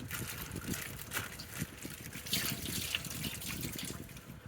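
Water trickling and dripping, with an irregular patter of small splashes.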